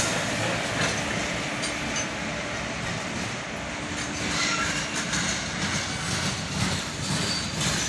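Freight train of flat wagons rolling past on the rails: a steady running noise of wheels on track, with scattered light clicks.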